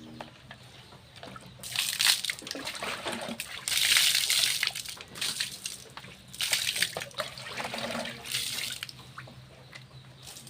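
Water splashing and pouring in about four separate bursts, each under a second, as water is poured over someone being bathed.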